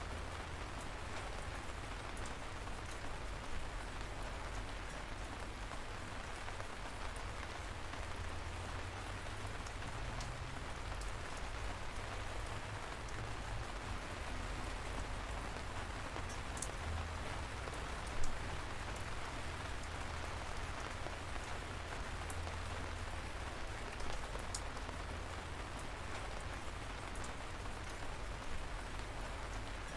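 Light, steady rain falling, with scattered individual drops ticking, one a little louder about halfway through, over a low rumble.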